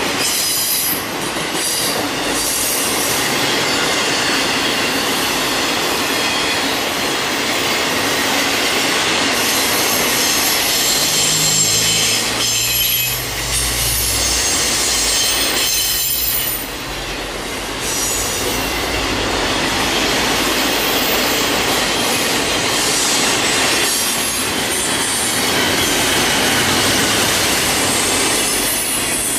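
Freight train rolling past, its steel wheels squealing against the rail with a clickety-clack over the rail joints. A deeper rumble swells briefly about halfway through.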